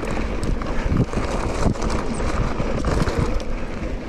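Mountain bike rolling over a rough dirt trail: tyre noise with frequent small knocks and rattles from the bike, and wind rumbling on the microphone.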